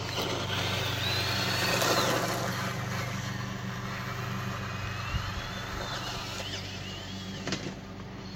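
Electric motor and gears of a Vaterra Twin Hammers RC truck whining, rising and falling in pitch with the throttle, over a steady low hum.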